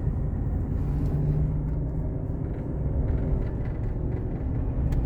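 A truck being driven: its engine and road noise make a steady low rumble, and the engine note rises slightly about a second in.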